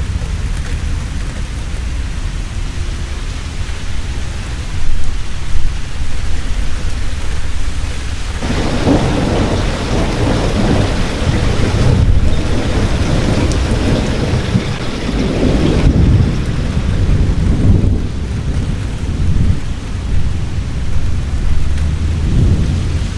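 Heavy rain falling steadily under low, continuous thunder, with a long rolling peal of thunder swelling up about a third of the way in and rumbling on in waves.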